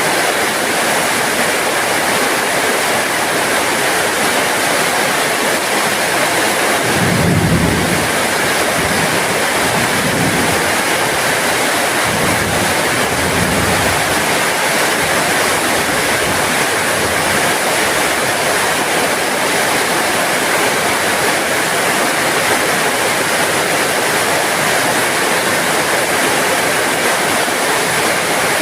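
Heavy rain pouring steadily, a dense, even hiss. A low rumble swells about seven seconds in and comes back more weakly a few times over the next several seconds.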